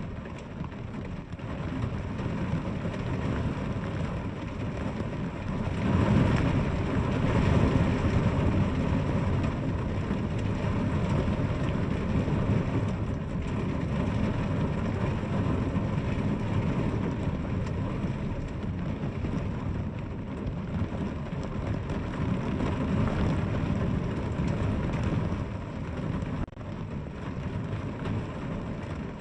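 Steady heavy rainfall, a dense, even hiss with a low rumble underneath, which swells louder about six seconds in.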